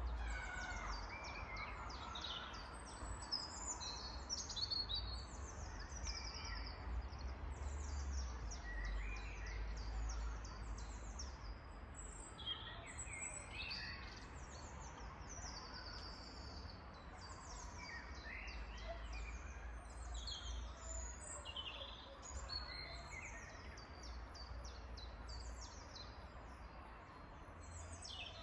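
Several songbirds singing, with many quick, high chirps and trills throughout, over a steady low rumble.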